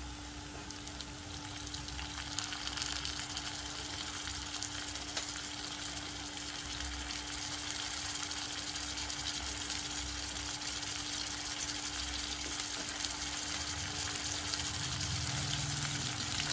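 Diced potatoes frying in a metal pan, a steady sizzle that grows slightly louder, with a steady low hum underneath.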